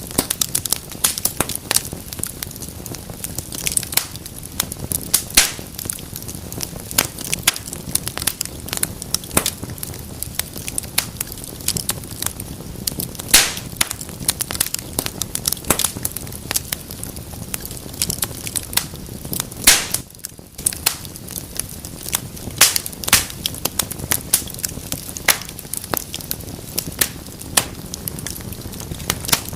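Wood fire crackling in a fireplace: a steady low rumble of flames with dense, irregular pops and snaps of burning logs, a few sharper loud pops among them.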